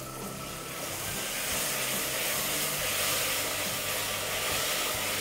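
Onion-tomato masala sizzling in hot oil in an aluminium pressure cooker as ginger-garlic paste is stirred in with a wooden spatula: a steady hiss that grows a little louder after about a second.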